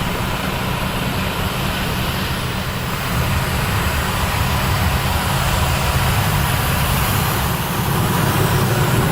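Heavy machinery engine running steadily under load, a little louder from about three seconds in.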